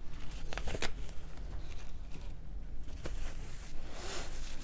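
Quick wiping of a handheld sugar refractometer's prism clean of pineapple juice: rubbing and rustling, with a few light clicks as the instrument is handled.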